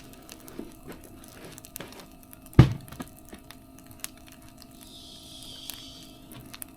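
Campfire crackling, with scattered sharp pops and one much louder thump about two and a half seconds in; a brief hiss near the end.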